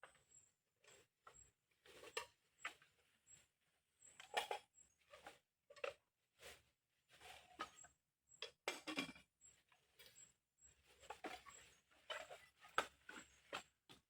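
Faint, irregular rustling, taps and light clinks of cooking gear and supplies being handled, with short pauses between them.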